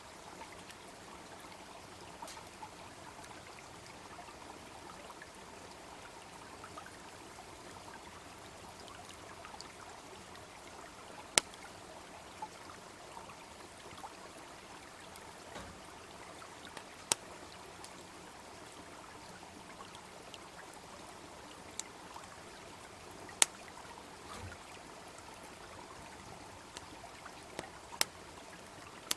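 Wood fire crackling, with a few sharp loud pops several seconds apart and fainter ticks between, over the steady babble of a small stream.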